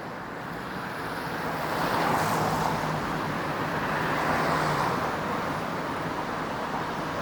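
Road traffic passing on a rain-wet street: a tyre hiss swells about a couple of seconds in, holds, then slowly eases, over a low steady hum.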